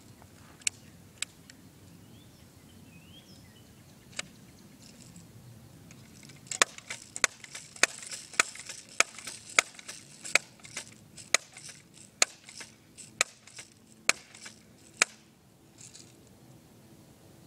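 Crosman M4 BB gun firing pellets at a laptop screen: a few single sharp cracks, then a rapid run of about twenty shots, roughly two a second, that stops about two seconds before the end.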